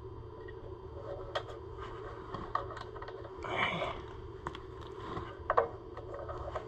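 Scattered light clicks and knocks, with a short scrape about three and a half seconds in, from hands working on the tractor's parts and tools.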